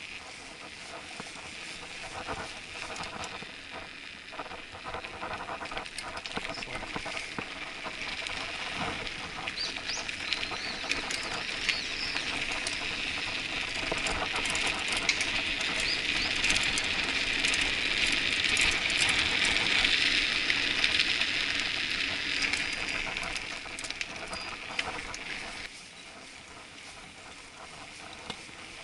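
Mountain bike riding on a paved street, heard from the handlebars: a rushing hiss of tyres and moving air with many small rattles and clicks from the bike. The hiss builds up over the middle and drops suddenly near the end.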